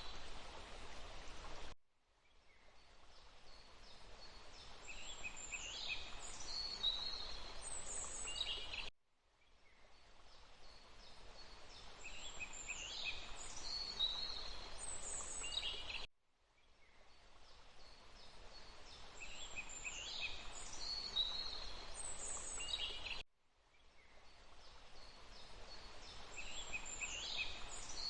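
Looped forest ambience: a steady hiss of rushing water with songbirds chirping over it. The same short stretch repeats about every seven seconds, each time cutting out abruptly and fading back in.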